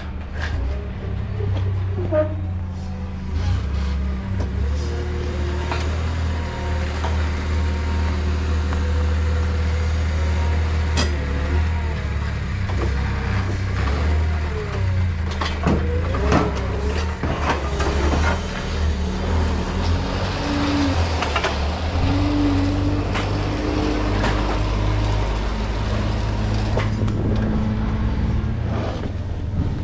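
Forklift loading pallets: its engine runs steadily under a low drone, with scattered knocks and clanks and a few short whines.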